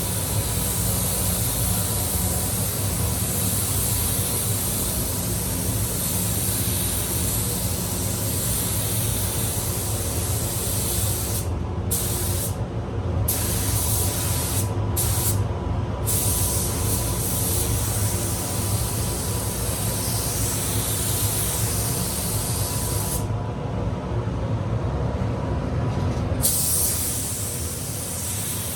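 Paint spray gun hissing steadily, stopping for a few short spells about halfway through and for about three seconds near the end, over a steady low hum.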